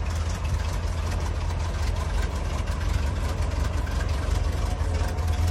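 Chevrolet 1970 LT1 350 small-block V8 idling steadily.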